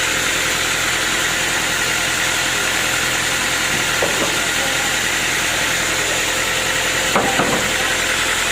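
Sawmill machinery running steadily with an engine-like hum and fixed tones, with two short knocks, about four and about seven seconds in.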